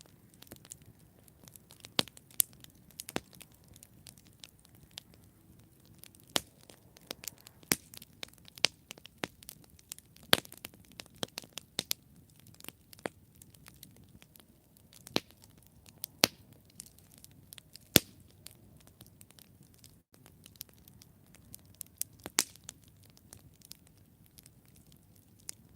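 Wood campfire burning and crackling: irregular sharp pops and snaps, some much louder than others, over a faint low hiss of the flames.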